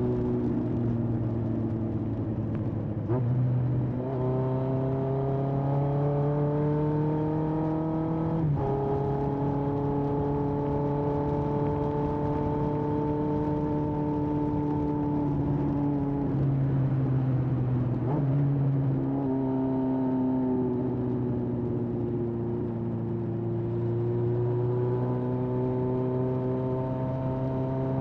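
Exhaust of a 1981 Honda CB750F's air-cooled inline-four through a period Yoshimura muffler, riding under way. The note climbs in pitch as it pulls through the gears, dropping at each shift about 3, 8 and 19 seconds in, and falls off as the throttle eases.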